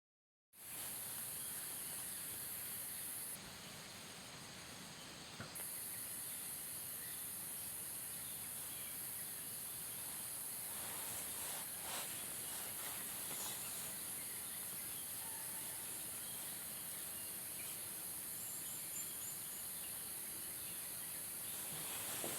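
Steady outdoor ambience dominated by a continuous high-pitched insect chorus, with faint scattered ticks and rustles. It starts abruptly after a moment of dead silence, and the high chorus briefly drops out a few seconds in.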